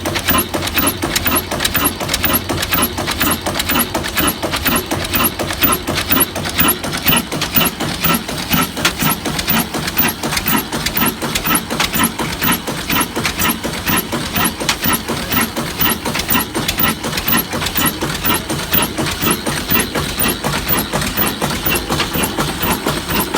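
Old stationary diesel engine running steadily, a fast, even beat of clattering strokes.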